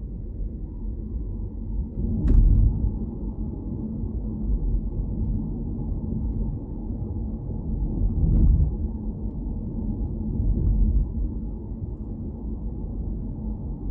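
Car driving: a steady low rumble of road and engine noise that swells louder about two seconds in and again near eight seconds in, with a brief sharp click at the first swell.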